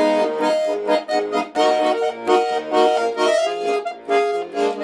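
Accordion playing an instrumental passage of a song alone, in quick-changing sustained chords and melody notes, with no singing.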